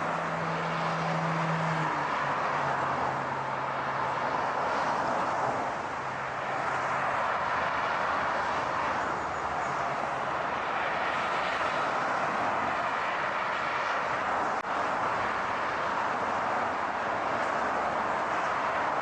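Steady car noise: a continuous rushing hiss, with a low engine hum that steps down in pitch about two seconds in and fades out by about ten seconds in.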